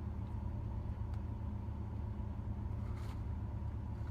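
Steady low drone of an idling truck engine heard inside the cab, with a faint soft rustle about three seconds in.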